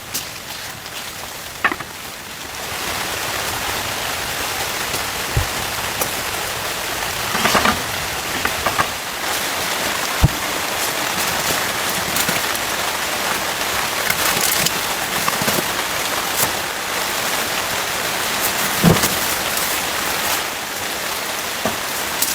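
Heavy rain falling on a tent, a steady hiss that grows louder a couple of seconds in, with scattered heavier drops knocking now and then.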